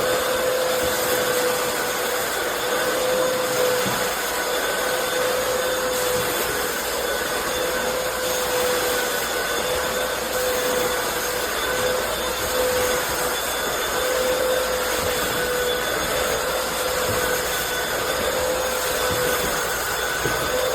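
Hoover FloorMate Deluxe hard floor cleaner's vacuum motor running steadily with a high whine, its motor bearings, which the owner says have died after about six months of light use.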